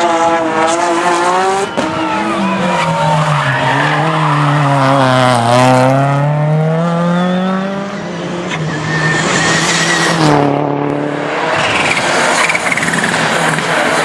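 Rally car engine revving hard at full load. Its pitch sinks and then climbs again through about the middle as the car lifts and accelerates, and it changes again near the end.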